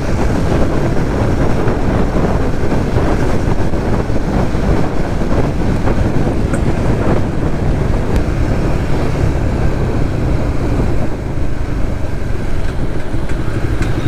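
Suzuki GSX-S150 single-cylinder motorcycle riding along the road, engine running under a steady rush of wind and road noise, with a brief dip in loudness about eleven seconds in.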